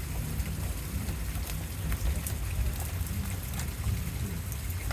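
Heavy rain falling steadily, with many sharp drops ticking on a nearby surface over a low, steady rumble.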